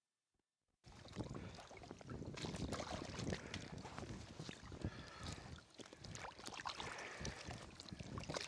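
Water splashing and sloshing around a sea kayak, with many small knocks and splashes. It starts suddenly about a second in, after near silence.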